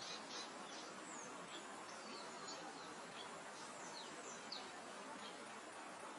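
Soft steady wind hiss across open grassland, with small birds calling over it: a rapid chattering trill at the start, then scattered single high chirps and sliding whistles.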